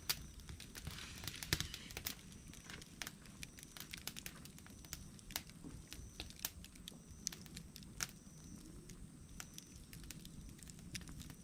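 Wood fire burning with irregular crackles and pops over a low rumble, busiest with hissing crackle about a second in.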